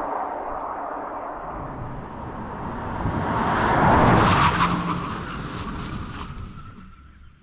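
Bentley Flying Spur Speed driving past: its tyre and engine noise swells to a peak about four seconds in, then fades away.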